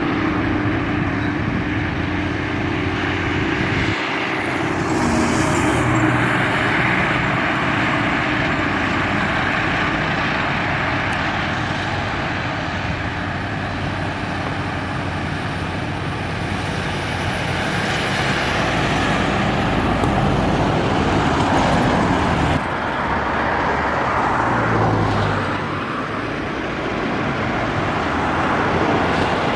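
Busy highway traffic passing close by: heavy trucks and cars, a continuous rush of tyres with engine drone, swelling several times as vehicles go past.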